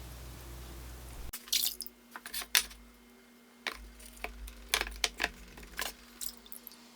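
Steady fizzing of whetstones soaking under water, cutting off suddenly after about a second; then a scattered run of sharp clicks, clinks and water drips as things are handled around the water pond.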